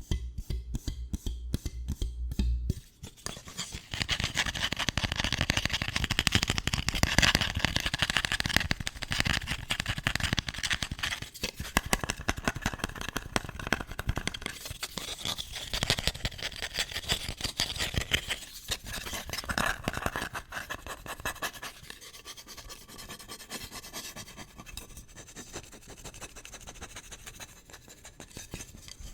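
Close-miked ASMR tapping and scratching on a hard object. Rapid, even tapping runs for the first few seconds, then gives way to fast, continuous scratching that eases off and gets quieter in the last third.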